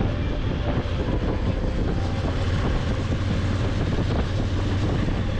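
Wind rushing over the microphone with a steady low engine drone beneath it.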